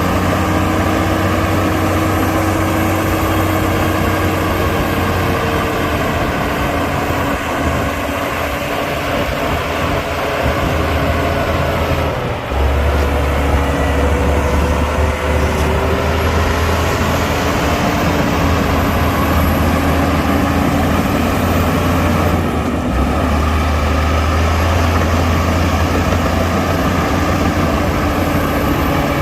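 Diesel engine of heavy earthmoving machinery running under load, its pitch drifting up and down. The low rumble gets heavier about twelve seconds in, with brief dips there and again near the end.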